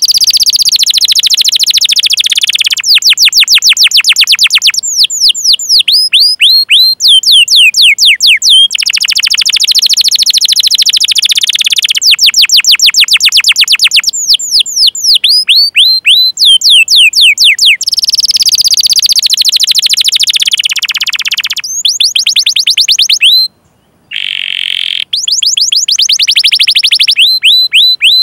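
Domestic canary singing a long, loud song: quick series of downward-sweeping "cuit cuit" chirps alternating with long rapid rolls, broken by a brief gap about 23 seconds in.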